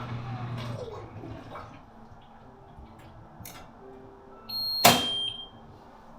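Miele washing machine: a low motor hum and a falling whine die away over the first second or two. About five seconds in comes a sharp click with a brief high electronic tone.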